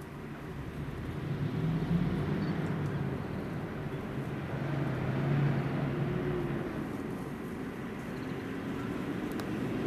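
Low engine hum of a motor vehicle, swelling about a second in and then holding with a slowly shifting pitch.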